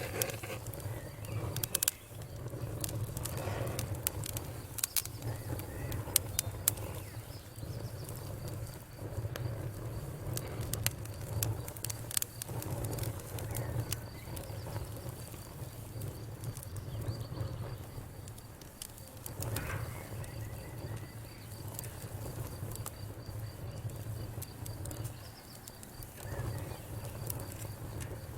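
Wood fire crackling: irregular sharp pops and snaps over a low steady rumble of the burning fire.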